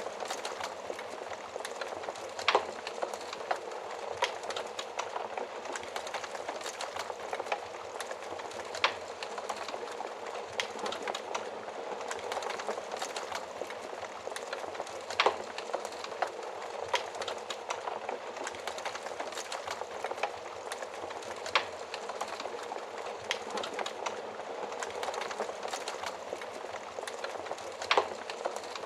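Fire burning inside an oven: a steady hiss with constant small crackles, and a louder sharp pop about every six seconds.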